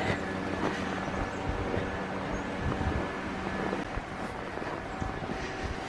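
Small gasoline engine of a snow-clearing blower running steadily at a constant speed, easing off slightly about two thirds of the way through.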